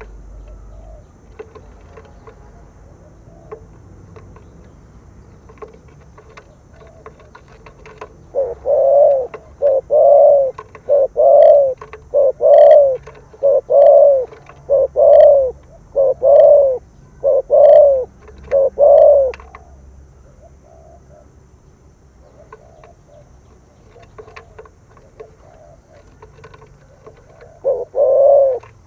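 Spotted dove (cu gáy) cooing, with the voice type that Vietnamese keepers call thổ cấn: a run of about nine low, loud coos, roughly one a second, in the middle, with faint coos around it and a new run starting near the end.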